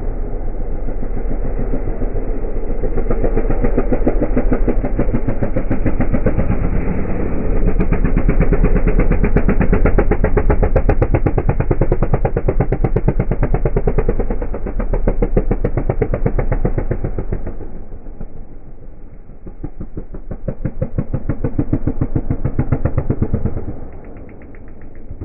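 Motocross bike engine running loud with a fast, even firing beat; it drops away about three quarters of the way through, swells again briefly, then fades near the end.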